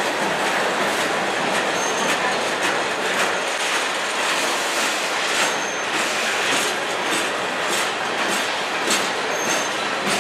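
Freight train's boxcars and covered hoppers rolling past: steady wheel-on-rail noise with clicks from the rail joints, and a short high wheel squeal three times, about two seconds in, past the middle and near the end.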